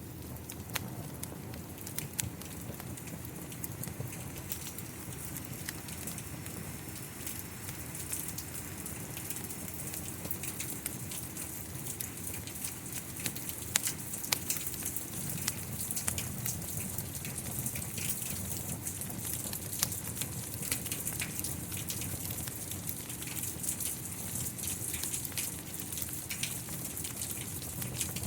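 Steady rain falling, with the sharp crackles and pops of a burning wood fire scattered through it. The rain's hiss grows a little heavier about halfway through.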